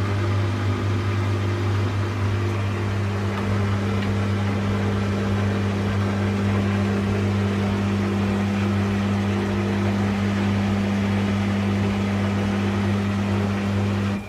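Steady machine hum with a strong low tone and a second tone above it, over a faint hiss; it cuts off suddenly at the end.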